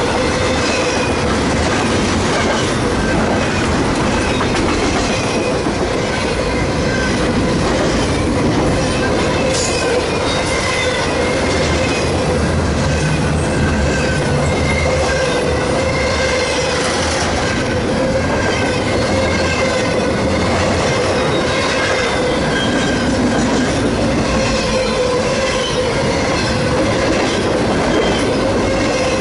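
A long train of railcars rolling past close by, steady and unbroken, with the wheels squealing as they run along the rails.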